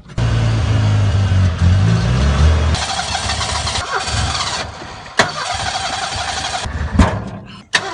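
Ford Pinto engine being restarted after it keeps stalling. It catches and runs with a deep low rumble for about three seconds. The starter then cranks on and off, with sharp clicks and a thump, as the engine fails to stay running.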